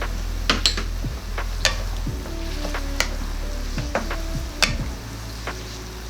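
A cooking utensil clinking and scraping against a wok as vegetables are stirred through simmering sweet and sour sauce, with sharp clinks about once a second. Background music with a steady bass plays underneath.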